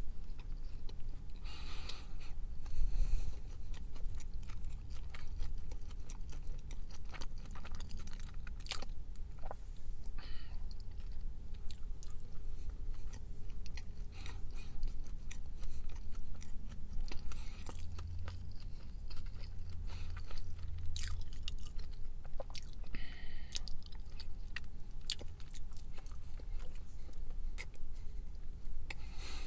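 A person chewing and biting soft-baked fig bars close to the microphone, with many short, sharp wet clicks of the mouth scattered through the chewing.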